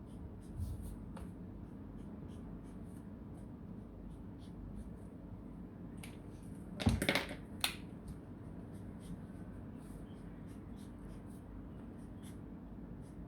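Faint scratching and ticking of a drawing being coloured in on paper, with a brief louder clatter about seven seconds in.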